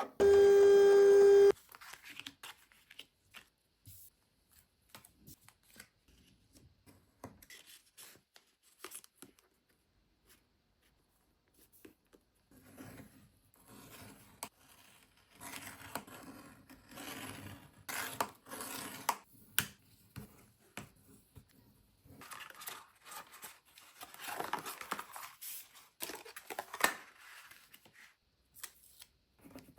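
A loud electronic beep at one steady pitch, about a second and a half long, followed by quiet handling of paper or craft materials: scattered clicks, taps and rustling.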